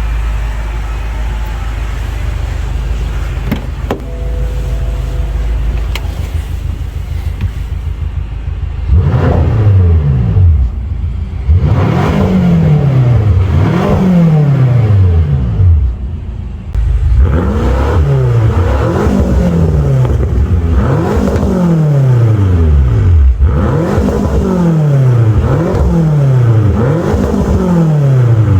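BMW M6 Gran Coupe's twin-turbo V8 on its stock exhaust, idling with a steady low burble. About nine seconds in it is given a long series of throttle blips, each a quick rise in revs that falls back more slowly, roughly one every one to two seconds.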